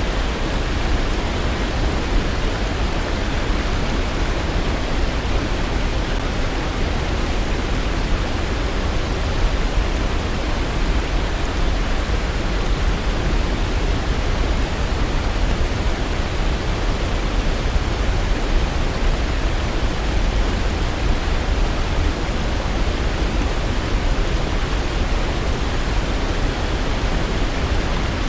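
Waterfall: a steady, unbroken rush of falling water, deep and even, with no change throughout.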